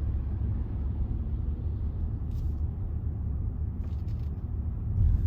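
Steady low road and engine rumble inside the cabin of a moving Range Rover, with a few faint ticks partway through.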